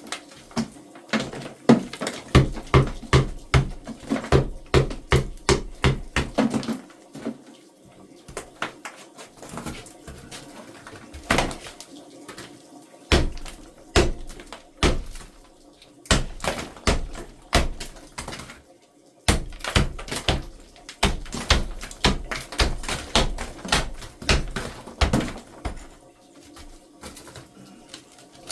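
Repeated hammer-like knocks in runs of about three strikes a second, stopping and starting several times, in a small room.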